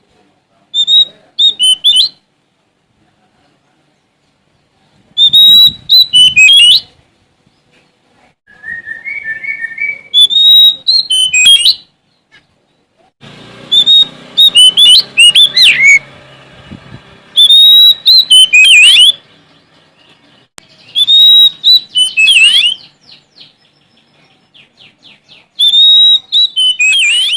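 Oriental magpie-robin (Sumatran kacer) singing in full voice: loud phrases of clear whistles and quick sweeping chattering notes, repeated every few seconds with short pauses between them. This is the male's challenge song, sung as if answering a rival.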